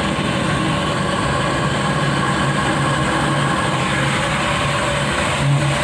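A steady hum over a hiss, unchanging throughout.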